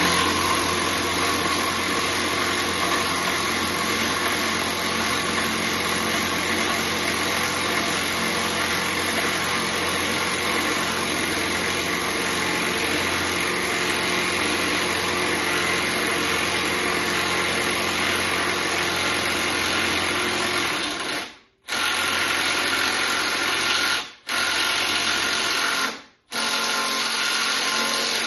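Milwaukee M12 FUEL impact driver on mode 2, running and hammering steadily as it drives a long screw into a wood stud. It lets off briefly three times near the end, then stops.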